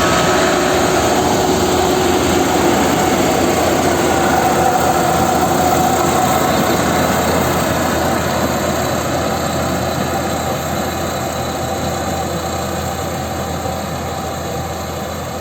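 Engine of a rice harvesting machine, most likely a combine harvester, running steadily. The sound fades gradually over the last several seconds.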